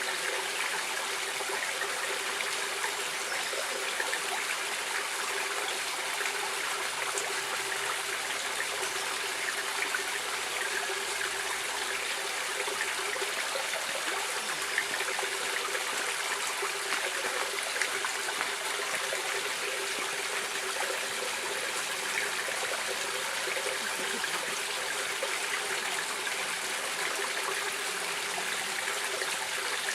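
Flowing stream water running steadily, with small trickling splashes in it.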